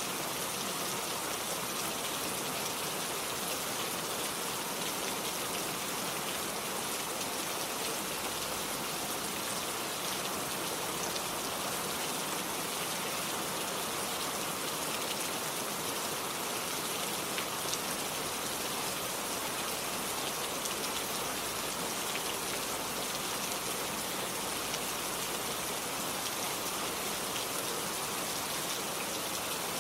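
Steady rain falling, a dense even hiss of many drops striking a surface, with individual drop ticks throughout.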